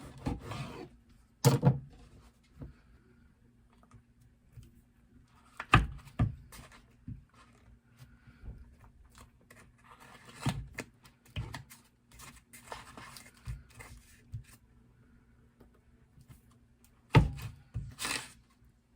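Kitchen handling sounds during food preparation: scattered sharp knocks of things set down on a hard surface, the loudest about a second and a half in, near six seconds and twice near the end, with rubbing and rustling between them over a faint steady hum.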